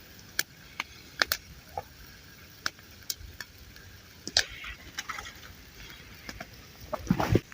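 A person biting into and chewing a buttered bread sandwich of fried pepperoni and pork, heard as scattered, irregular crunchy clicks and mouth sounds, with a short louder cluster near the end.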